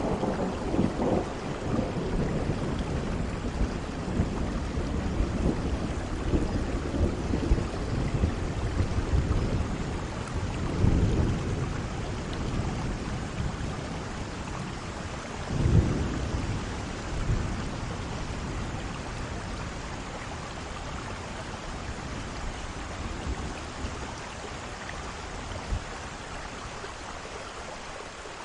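Rain falling steadily with low, rolling thunder rumbling several times in the first half: near the start, about a third of the way in and about halfway. The later part is rain alone.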